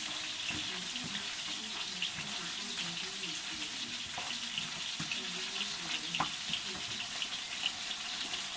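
Food frying in a pan with a steady crackling sizzle, and a few light utensil knocks about four, five and six seconds in.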